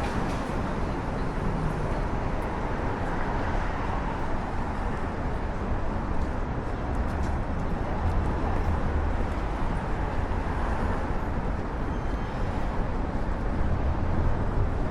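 City street traffic ambience: a steady rumble of passing vehicles, with a deeper swell about eight seconds in.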